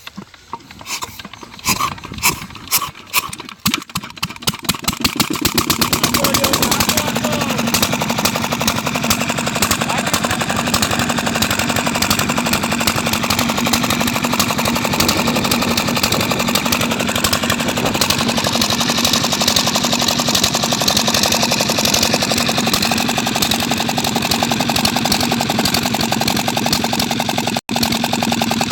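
Old Peter diesel engine starting up: a few separate firing knocks that come faster over the first five seconds, then it settles into a steady, fast running beat.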